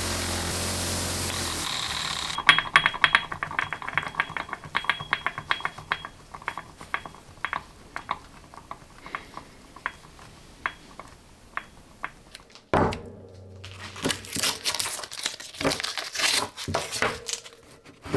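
A steady machine noise cuts off, then a run of sharp ringing clicks comes quickly at first and grows sparser. After a knock, crinkling and tearing follow as wrapping or tape is pulled off a mold.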